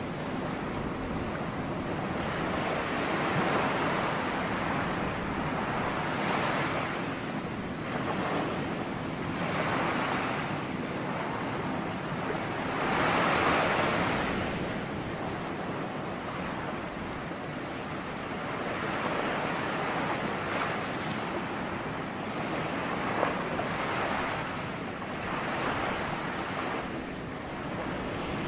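Ocean surf: waves breaking and washing ashore in a continuous hiss that swells and eases every few seconds, with the loudest wave about halfway through.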